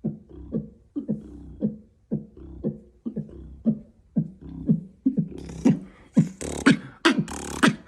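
Beatboxing that imitates club music: a muffled, bass-heavy beat at about two pulses a second, as if heard from outside. About five seconds in it opens up into the full beat with crisp hi-hat and snare sounds, as if walking into the club.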